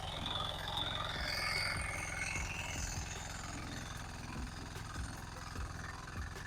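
Engine of a soil-loosening farm machine running steadily at a constant pitch.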